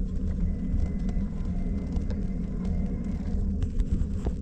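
Steady low rumble of a vehicle travelling along a road, with light clicks and rattles from about three and a half seconds in.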